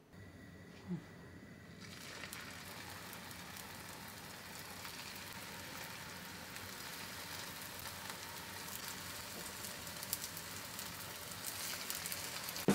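Potato patties sizzling in hot olive oil in a frying pan: a short knock about a second in, then an even sizzle that starts about two seconds in and slowly grows, with light crackles toward the end as more patties go into the oil.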